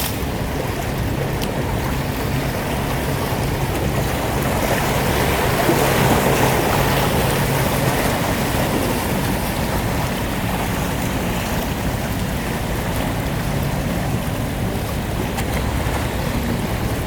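A motorboat's engine hums low while water washes and churns, the sound swelling about six seconds in and then easing off as the boat passes.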